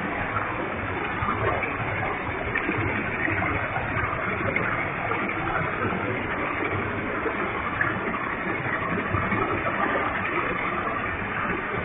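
Waterfall with a heavy flow of water, the falling water rushing steadily and evenly without a break.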